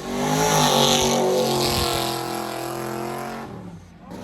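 V8 car engine accelerating hard, its pitch climbing quickly and then holding. It is loudest about a second in and fades away after about three and a half seconds, as the car pulls away.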